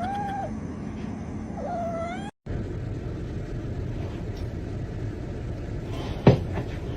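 A cat meowing twice, each call a short rise and fall in pitch. After a cut there is a steady low rumble, with one sudden loud sound near the end.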